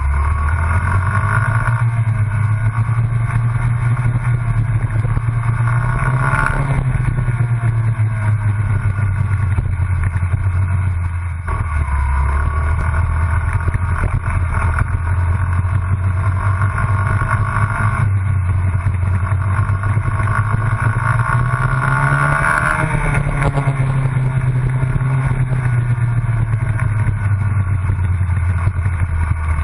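Honda CRF50 mini dirt bike's small single-cylinder four-stroke engine running as it is ridden, its pitch climbing under throttle and dropping back twice.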